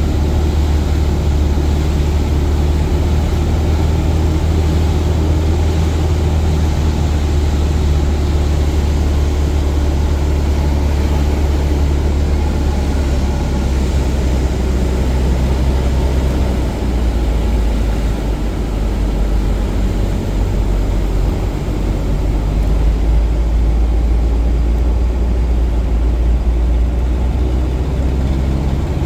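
A Cessna 177 Cardinal's single piston engine and propeller drone steadily in flight, with a strong low hum and rushing air noise. A little over halfway through, the drone settles to a lower pitch.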